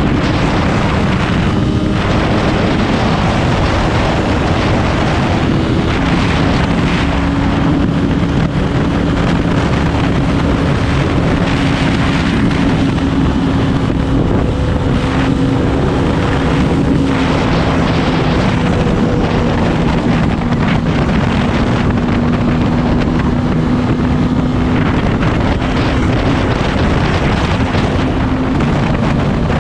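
Motorcycle engine running at a steady cruise with its pitch drifting slowly lower, under heavy wind noise buffeting the microphone.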